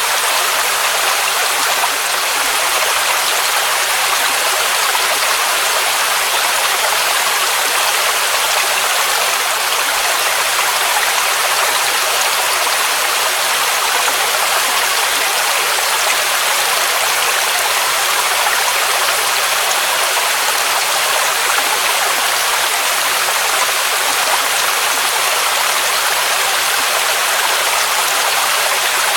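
Waterfall: a steady rush of falling water, an even hiss weighted toward the high end with little deep rumble.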